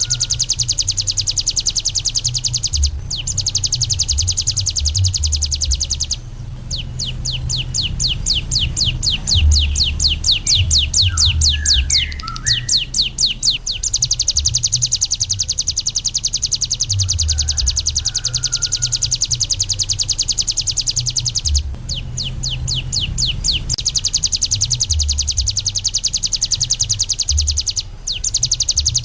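Ciblek gunung (a prinia) singing in long, very fast high trills, broken by brief pauses. In the middle it switches to a run of separate repeated sweeping notes, about five a second. A low hum runs underneath.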